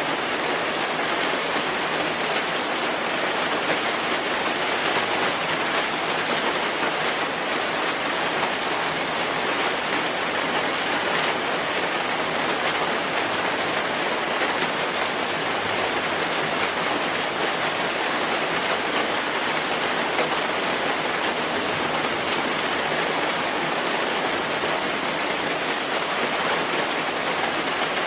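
Steady rainfall, a dense even patter of raindrops on a surface with no breaks.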